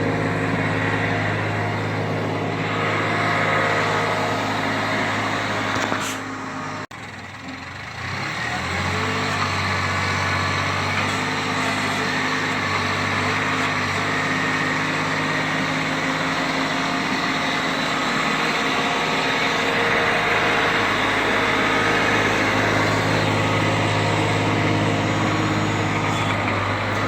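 The engine of a snow-clearing machine running steadily under load. About seven seconds in it briefly drops away, then comes back with a short rise in pitch.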